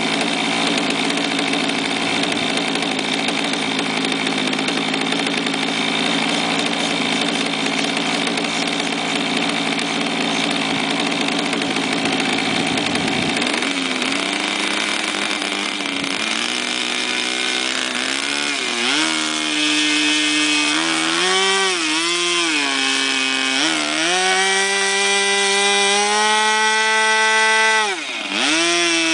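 Model airplane's O.S. rotary (Wankel) engine running, first as a steady, noisy drone. From about halfway its pitch steps up and down with throttle changes, and it drops briefly and sharply near the end before picking back up.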